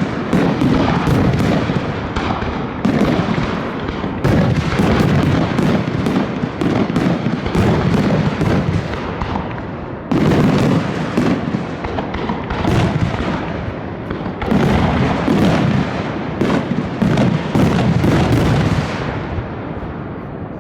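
Fireworks display: a continuous barrage of bangs and crackles, with heavy booms coming in waves every few seconds, thinning out near the end.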